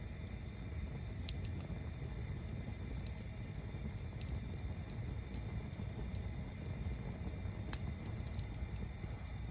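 Wood bonfire built as a stacked tower, burning over a steady low rumble, with scattered sharp crackles and pops, about seven in all, a loud one near the end.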